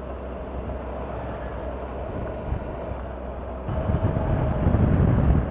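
Triumph Tiger 1200's three-cylinder engine running while riding, with wind rushing over the microphone; the rumble and wind grow louder about three and a half seconds in.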